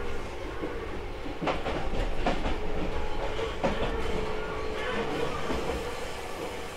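Tobu 6050 series electric train running, heard from inside the car: a steady rumble and hum with wheels clicking over rail joints, a cluster of clicks from about a second and a half to four seconds in and a few more near the end.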